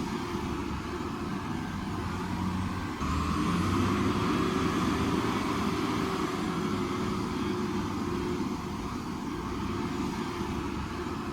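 Heavy-equipment diesel engine running steadily. It grows louder about three seconds in, as if under load, and settles back down after about eight seconds.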